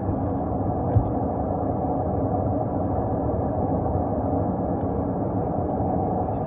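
Steady rumble and rush of aircraft noise heard inside the cabin of an Airbus A321neo, with a single knock about a second in.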